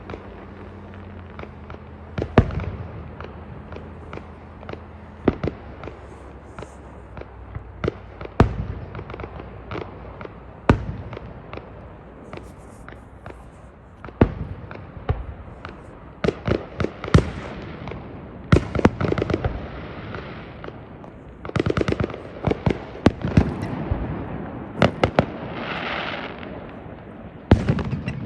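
Fireworks going off: scattered sharp bangs, becoming denser from about halfway with clusters of rapid crackling reports. A low steady hum runs under the first several seconds.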